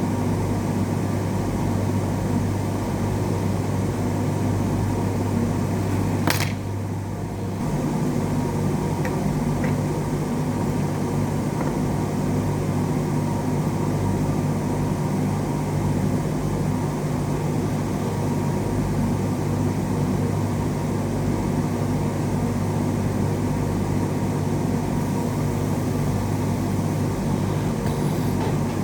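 A steady fan-like whir with a low hum. A sharp click comes about six seconds in, and after it the hum shifts slightly higher in pitch.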